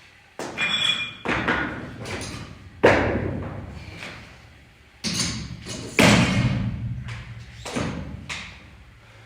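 Gym weights dropped and set down on the floor during snatch reps: a series of heavy thuds, about seven in all, the loudest about three and six seconds in.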